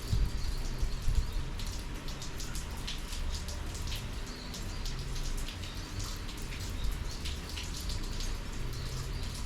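Steady summer monsoon rain, with many separate raindrops striking close by as quick, irregular ticks over a continuous hiss.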